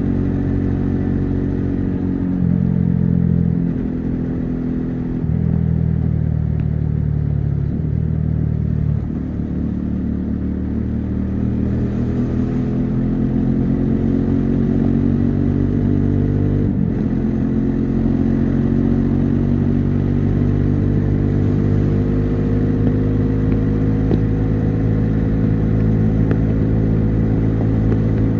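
Bajaj Dominar 400's single-cylinder engine and exhaust pulling along the highway. The engine note changes several times in the first few seconds, then climbs steadily. About 17 seconds in it drops sharply at a gear change and climbs again.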